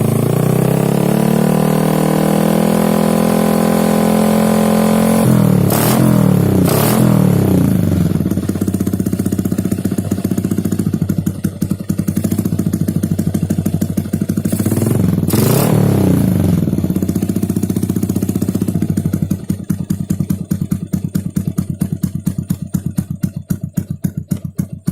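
Yamaha Jupiter MX single-cylinder four-stroke engine through an MCC Trioval racing exhaust with a half baffle. It is revved up and held high for about five seconds, drops back, and is given two quick throttle blips. It idles, gets two more blips, then idles with slow, separately heard exhaust pulses until it stops at the end.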